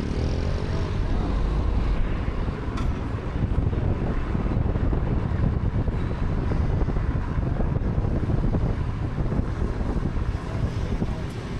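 Steady engine and road rumble of a car heard from inside while driving, with some wind noise.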